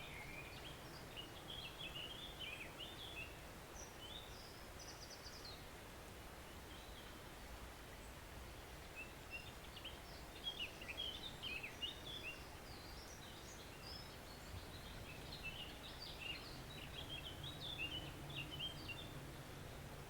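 A woodland stream running quietly, with songbirds singing in several bouts of quick chirps and trills over it.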